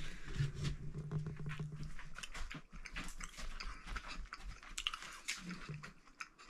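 A person chewing a mouthful of cooked snowshoe hare meat, with many small irregular clicks. The meat is tough and chewy.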